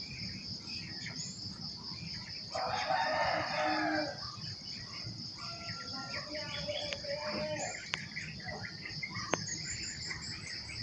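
A rooster crowing once, about two and a half seconds in, over a steady high insect drone and scattered short bird chirps.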